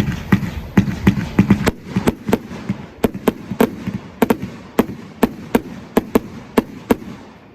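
Fireworks display: a rapid volley of sharp bangs from bursting fireworks, about three a second, with crackle between them. The bangs stop shortly before the end.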